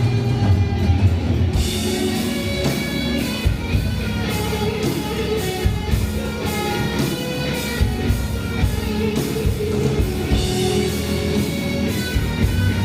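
Live rock band playing: electric guitar, bass and drum kit, with cymbal strokes coming in about a second and a half in and keeping a steady beat.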